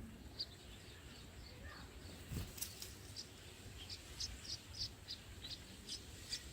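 Small birds chirping: many short, high chirps, spaced irregularly, with one soft knock about two and a half seconds in.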